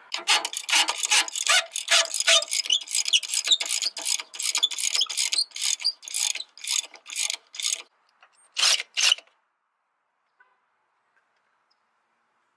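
Socket ratchet clicking quickly, about four or five clicks a second, slowing and fading off, then two louder clicks: a bolt beside the alternator being backed off to slacken the drive belt.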